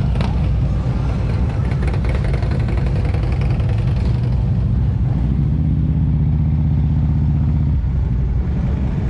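Motor vehicle engines running steadily, with one engine's even drone standing out for a couple of seconds past the middle.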